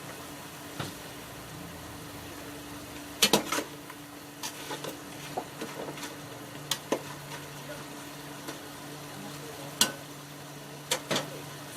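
Chicken cooking in a pot with a steady sizzle and a low hum. A utensil stirs it, clinking sharply against the pot about eight times, loudest about three seconds in.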